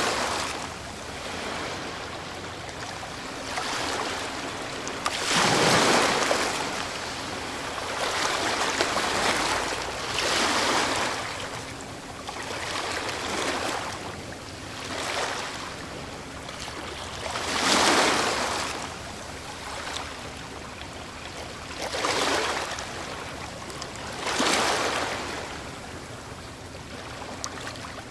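Ocean waves breaking on a beach, the surf swelling and falling again every few seconds over a steady wash of water.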